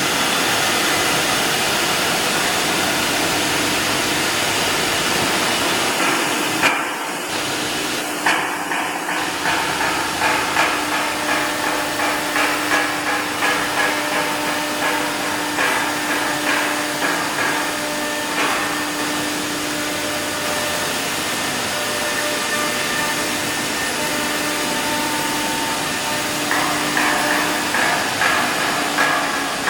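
Multi-spindle CNC wood engraving machine running: a steady hiss of spindles and cutting with a hum, and from about a third of the way in a run of sharp knocks, one to two a second, that pause and return near the end.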